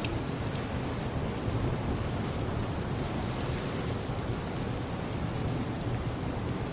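Winter wind blowing steadily, a deep low rumble under a high hiss, with a few faint crackles from a wood fire in a fireplace.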